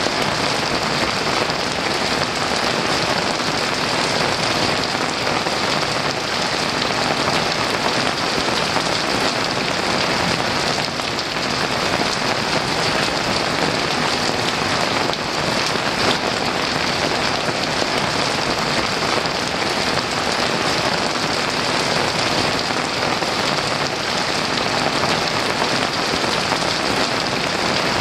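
Heavy rain falling steadily, a dense, even downpour hiss with no thunder heard.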